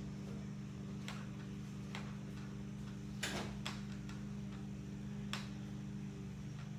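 Stationary exercise bike being pedalled: a steady low whir with a light click about once a second.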